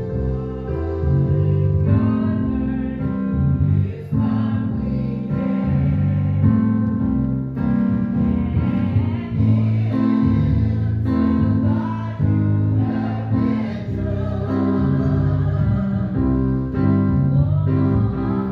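Congregation or choir singing a hymn with piano or keyboard accompaniment.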